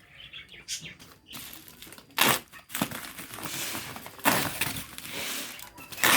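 Packaging being handled during an unboxing: rustling and crinkling, with several sharp, loud rips or knocks.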